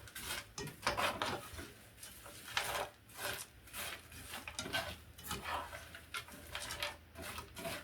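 A utensil stirring frozen beef lo mein, noodles and sauce in a nonstick skillet: a string of irregular scraping strokes against the pan.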